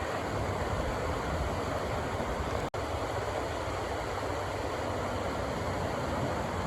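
Rushing water making a steady, even rush. There is a split-second dropout about two and a half seconds in.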